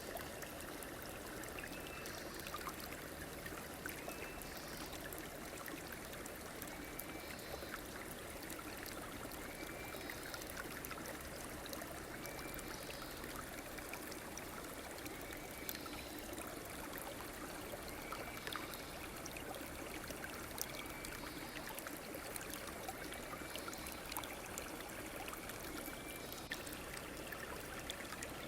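River or stream water flowing steadily. A short, high chirp repeats about every two seconds over it.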